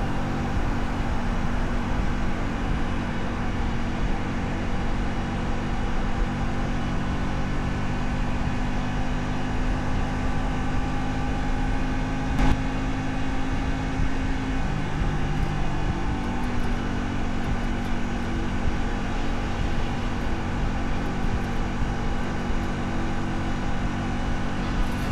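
A 125 cc custom motorcycle engine running steadily while riding through town. Its pitch shifts about two-thirds of the way through and then holds steady again, and there is one sharp click about halfway.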